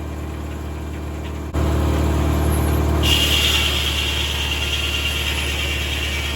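Tractor engine running steadily as it powers a 1950 Corley circular sawmill. The sound steps up suddenly in loudness about a second and a half in, and a high steady whine joins about a second later.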